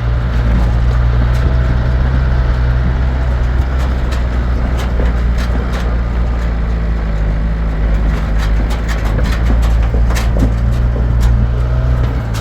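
A motor vehicle's engine running steadily with a low drone, with scattered rattles and clicks over it.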